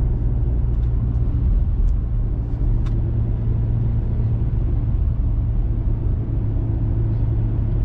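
Steady low hum of a four-wheel-drive vehicle's engine and tyres on the road, heard from inside the cabin while driving, with a couple of faint ticks about two and three seconds in.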